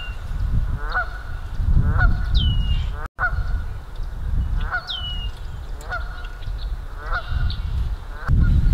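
Birds calling: a short call repeated about once a second, and a thin falling whistle every couple of seconds, over a steady low wind rumble on the microphone. The sound cuts out briefly about three seconds in.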